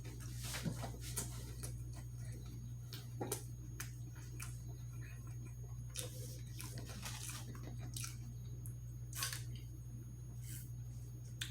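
Close-up eating sounds: wet chewing, squishes and small mouth clicks coming in scattered bursts, over a steady low hum.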